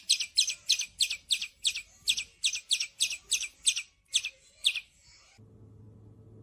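A bird calling in a rapid string of sharp, high chirps, about four a second, that stops a little before five seconds in. A faint low hum follows.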